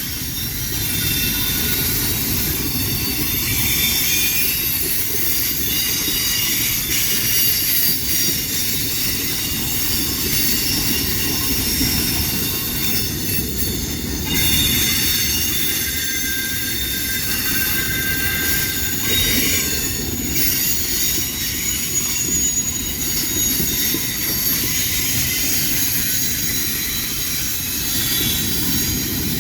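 A train rolling past with a steady rumble of wheels on rail and high-pitched wheel squeal throughout, with a few brief clacks along the way.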